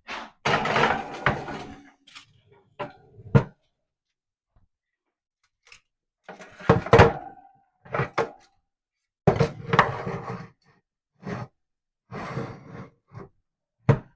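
Raw chicken wings being laid on a metal baking pan: a series of short knocks and clattering handling noises with gaps between them.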